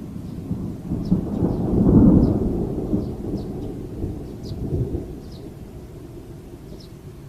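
Thunder from a nearby storm: a deep rumble that swells to its loudest about two seconds in, rolls on with a smaller swell near five seconds, then fades.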